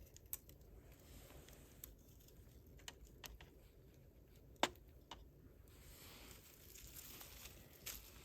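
Wood campfire burning quietly, with scattered sharp pops and crackles from the burning wood, the loudest pop a little past the middle. A soft crackling hiss builds near the end.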